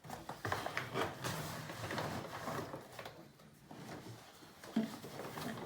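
Plastic clattering and rustling as washing powder is put into a washing machine's detergent drawer, with a sharp knock near the end.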